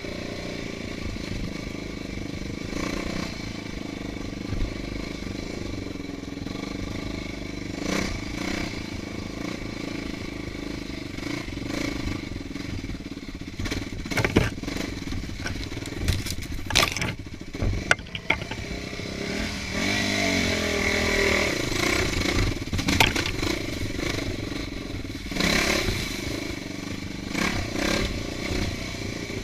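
Dirt bike engine running on a trail, with sharp knocks and clatter near the middle and a rev that climbs about two-thirds through.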